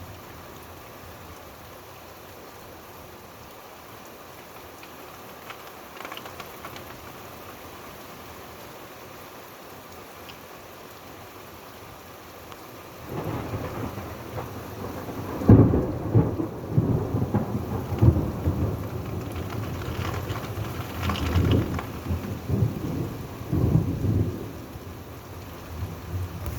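Steady rain falling, then a long roll of thunder about halfway through: a sharp crack, then several rumbling peaks before it eases off near the end.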